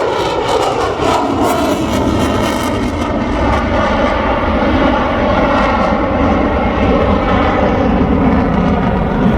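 F-35C Lightning II jet, its single F135 afterburning turbofan making loud, steady jet noise as it makes a low pass, the pitch sinking slowly over the first couple of seconds.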